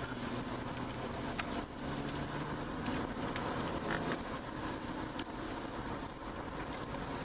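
A vehicle engine running with a steady low hum under an even haze of noise, with a few faint clicks.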